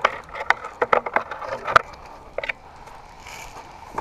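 A quick, irregular run of about a dozen sharp clicks and knocks in the first two seconds, with two more about half a second later.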